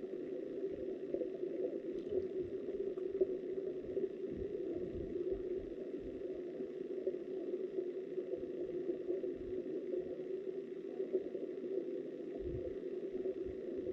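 Flowing river water heard underwater through a submerged camera's housing: a steady muffled rush, with occasional soft low thumps, the strongest near the end.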